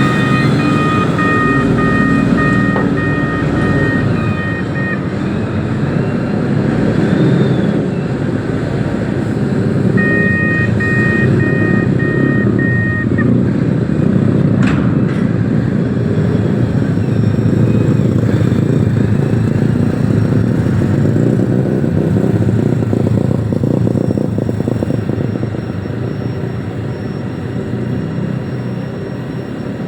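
Reach stacker's heavy diesel engine running under load with a steady low rumble. Its beeping reversing alarm pulses at the start and again about ten seconds in, and there is one sharp clack midway.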